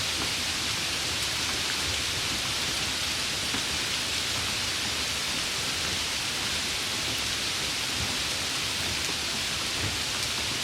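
Steady rain falling on a surface, an even hiss with faint scattered drops.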